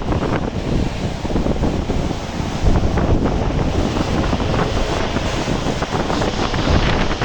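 Strong wind gusting hard and buffeting the microphone, with rain falling in a steady hiss flecked with crackles.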